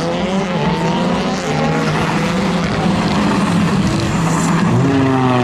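Audi Quattro S1 rally car engine at high revs under hard acceleration. Its pitch climbs, drops at a gear change about two seconds in, holds fairly level, then climbs again near the end.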